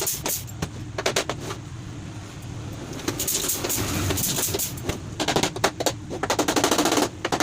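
Workshop knocks and clicks from work on a wooden flight case, with a dense run of rapid clattering in the second half, over a steady low rumble.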